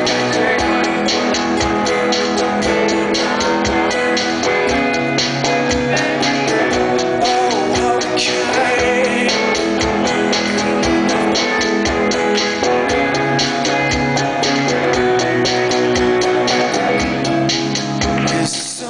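Live rock band playing an instrumental passage with a steady drum beat under sustained chords. There is a brief dip in volume just before the end.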